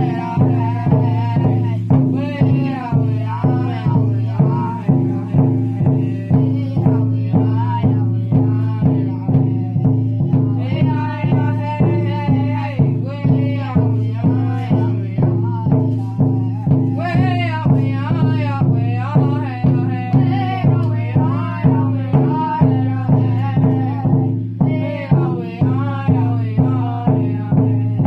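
Indigenous song: a voice singing over a steady drumbeat of about two strokes a second.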